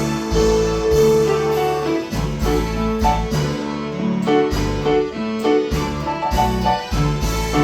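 Keyboard accompaniment with a piano-like sound, playing chords over a bass line in a steady rhythm.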